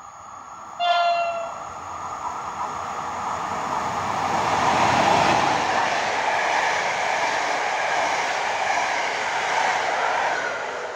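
A short horn blast from a PKP EP07 electric locomotive about a second in, then the locomotive and its passenger coaches passing, the noise of wheels on rail building to its loudest about five seconds in and easing off near the end.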